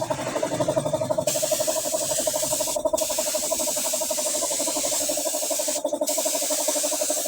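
A small motor running steadily with a fast pulsing hum and a hiss on top; the hiss breaks off briefly twice.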